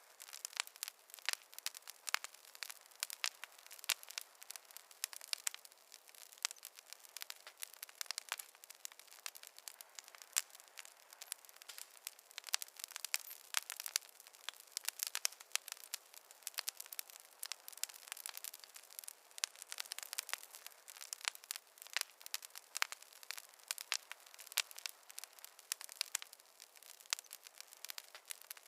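Fireplace fire crackling: a continuous stream of small sharp pops and snaps, several a second and uneven in loudness, thin with no low rumble.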